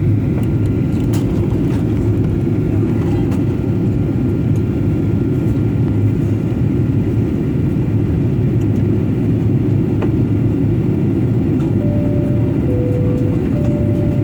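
Steady low rush of airliner cabin noise in flight: engine and airflow noise heard from inside the passenger cabin. Near the end, a faint two-note tone alternates high and low a few times.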